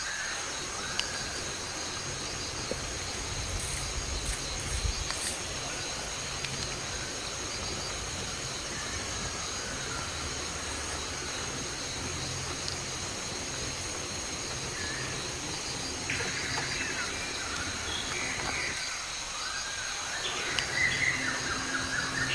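Outdoor nature ambience: a steady high-pitched insect drone throughout, with birds chirping, busier in the last few seconds, over a low rumble.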